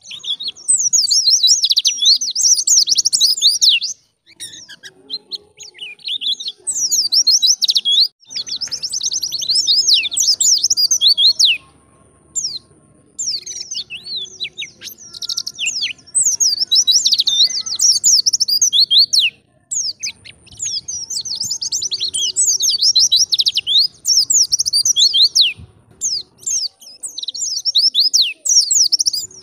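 A white-eye (pleci) singing its wild-type 'ngalas' song: fast runs of high chirps in phrases of one to several seconds, broken by short pauses. The longest phrase comes near the end.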